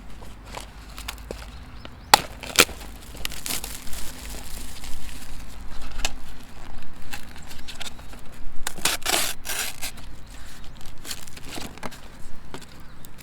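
Rustling and crinkling of handled material, with scattered sharp clicks; the sharpest clicks come about two seconds in, and a longer rustle follows around nine seconds.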